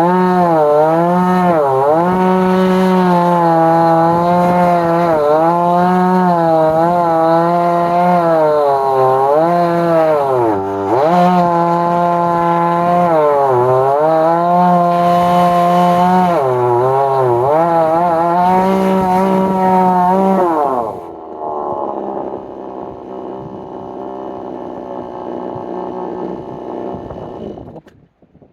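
Chainsaw on a chainsaw mill ripping lengthwise through a log at full throttle on a freshly sharpened chain, its pitch dipping again and again as the chain bites and bogs in the cut. About twenty seconds in, the revs fall and it idles, then it shuts off near the end.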